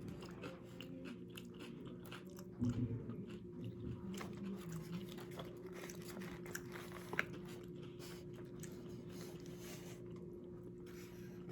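Close-up chewing and crunching of nachos (tortilla chips topped with jalapeños), with many small crackles and mouth clicks. A faint steady hum runs underneath.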